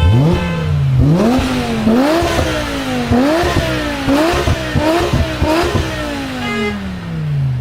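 Mercedes car with a loud exhaust, its engine note rising and dropping sharply again and again under throttle, then falling away in one long slide near the end as it comes off the power.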